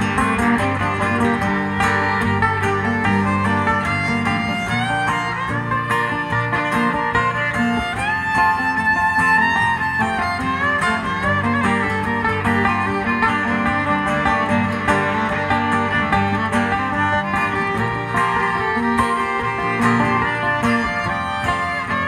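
Live acoustic band's instrumental break: a fiddle plays the melody with gliding notes over steadily strummed guitar.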